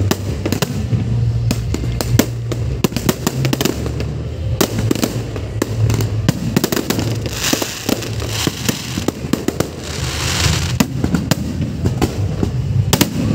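Fireworks display: a rapid, irregular series of aerial shell bursts, with two stretches of crackling hiss in the middle.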